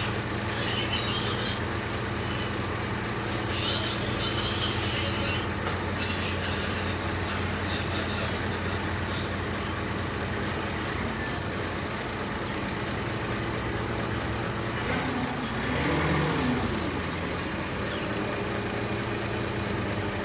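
Excavator's diesel engine running steadily, with a brief rise and fall in pitch and loudness about three-quarters of the way through.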